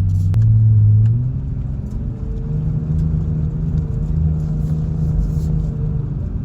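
A four-wheel-drive's engine working under load while pushing through deep snow, with the diff dragging in the snow. The revs rise about a second in, hold higher and steady, then fall back near the end, with a few knocks at the start.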